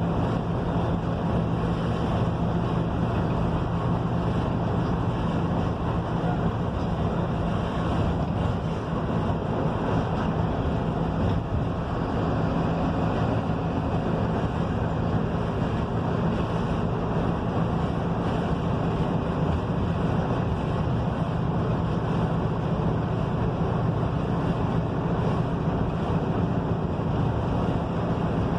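Mercedes-Benz OF-1721 bus's diesel engine running steadily under way, with a steady low hum beneath the rushing noise of the road and wind.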